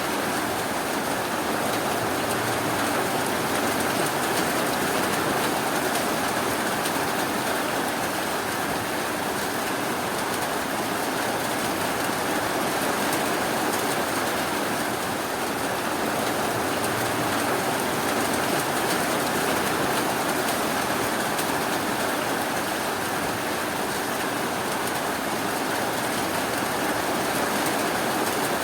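Steady rainfall: an even, unbroken hiss of rain without thunder or single drops standing out.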